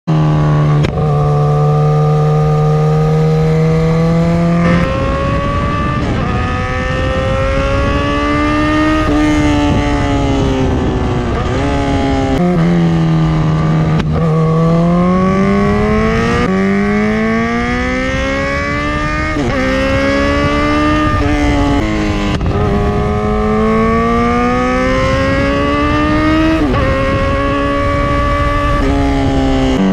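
Kawasaki Z1000 R's inline-four engine through an SC-Project S1 aftermarket exhaust. It runs steady and low at first, then rises in pitch again and again, each rise cut back part-way every two to three seconds, like accelerating up through the gears. About halfway through it settles low and steady, then starts climbing again.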